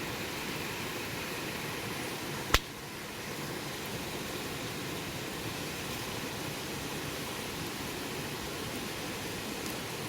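Wood fire burning with a steady hiss and light crackle, and one sharp pop of the burning wood about two and a half seconds in.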